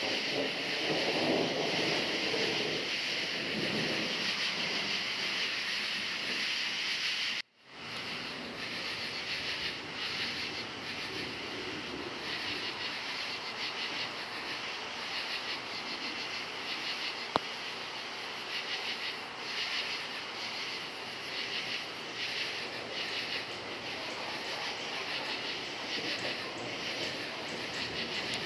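Crickets chirring in a steady dense chorus, with a low rumble of distant thunder swelling in the first few seconds. The sound drops out for a moment about seven seconds in, and a single sharp click sounds a little past halfway.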